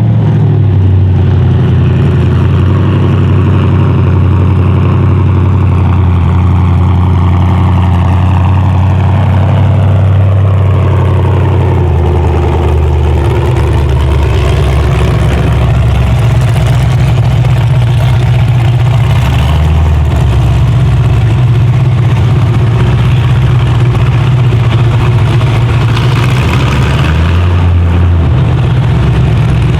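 A loud engine running hard without a break, its low drone shifting in pitch a few times.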